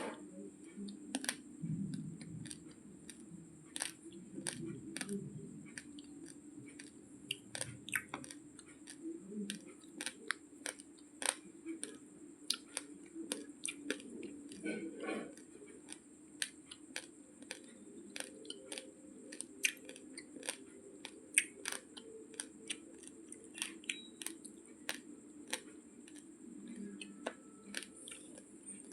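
Raw basmati rice grains being chewed and crunched between the teeth: a steady run of sharp, irregular cracks, several a second, over a low steady hum.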